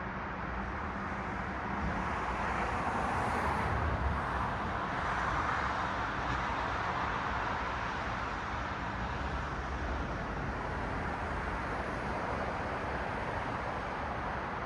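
Road traffic: steady tyre and engine noise of passing cars, swelling as a car goes by a few seconds in, then settling back to a steady hum.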